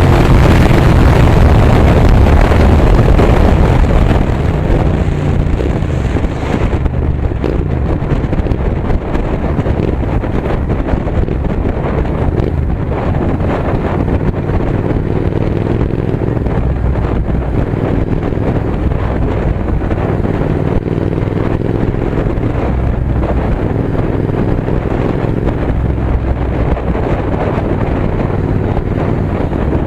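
Royal Enfield Continental GT 650's parallel-twin engine running through an AEW TE 102 exhaust with the dB killer removed. It is loudest for the first few seconds, then settles into a steady, lower rumble, with wind buffeting the microphone.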